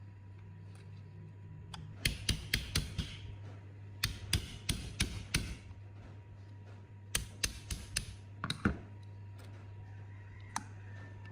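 Quick, light, sharp taps of a tool on metal parts, in three runs of five or six, over a steady low hum.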